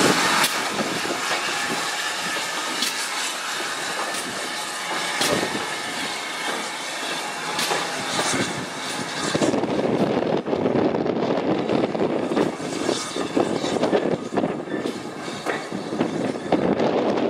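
Steam-hauled passenger coaches rolling slowly past, their wheels running with a steady rumble and irregular knocks over the rail joints. The rumble gets rougher and choppier about ten seconds in.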